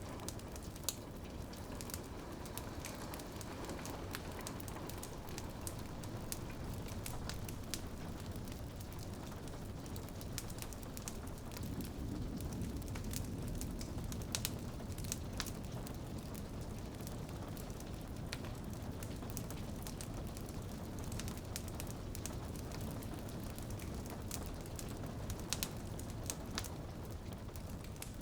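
Wood fire crackling and popping with rain falling against a window: a steady low rushing bed with frequent sharp snaps scattered throughout.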